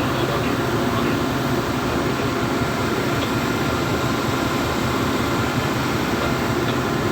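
Ship's machinery running with a steady, unchanging low drone.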